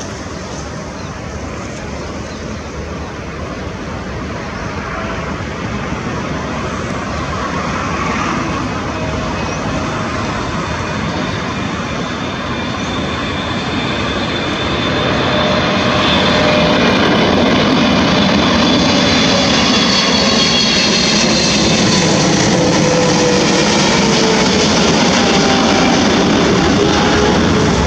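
Boeing 777 on landing approach, its twin GE90 turbofans whining over a broad jet rush. It grows louder over the first half and stays loud, and several engine tones slide down in pitch as it passes.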